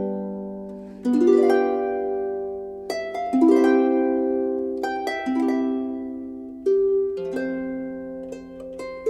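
Background music: a harp playing slow rolled chords about every one to two seconds, each plucked chord ringing and fading away.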